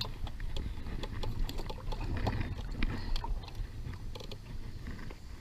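Kayak on the water: scattered small splashes, clicks and knocks of paddle and hull over a steady low rumble.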